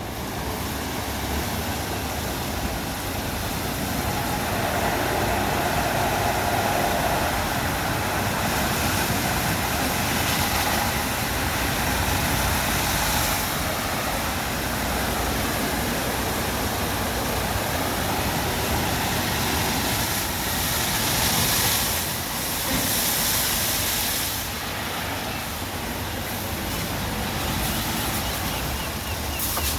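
WashTec SoftCare Pro Classic rollover car wash working over a car: a steady rush of water spray and machinery. The hiss swells twice.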